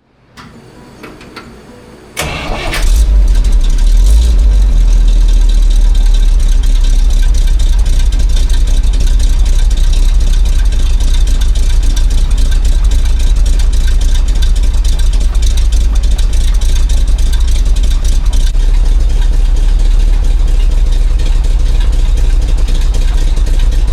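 Big-block 427 Chevrolet V8 in a C70 truck cranked and started: it catches after a brief burst of cranking about two seconds in. It then runs loud and steady with a deep exhaust rumble.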